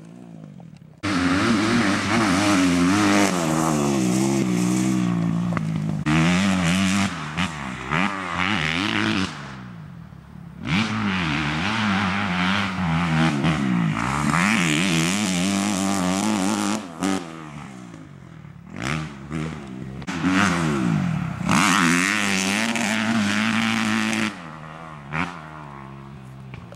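Kawasaki KX250F four-stroke single-cylinder motocross engine revving hard, its pitch climbing and falling over and over through the gears. It drops into short quieter lulls off the throttle, about ten and eighteen seconds in, and again near the end.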